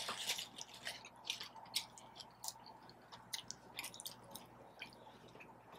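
A person chewing food close to the microphone: irregular wet mouth clicks, thinning out over the last second or so.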